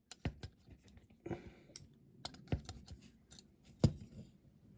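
Irregular sharp clicks, knocks and short scrapes of a hand tool working a part loose on a small metal diecast model car, with one louder knock near the end.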